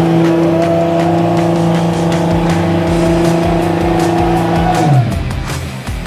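A car engine held at steady high revs for about five seconds, then the revs fall away sharply near the end, with music playing underneath.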